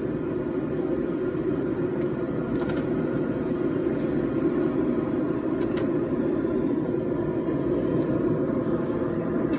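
Steady, dense rumbling roar of a running forge while the steel heats, with a couple of faint metallic clicks.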